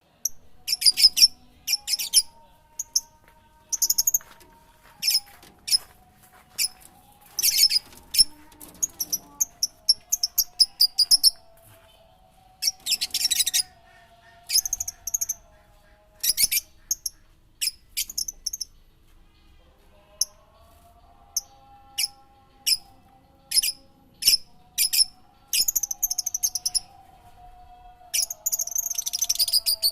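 Songbird chirping in quick runs of short, very high notes, with a dense trill twice. A faint wavering lower tone runs underneath.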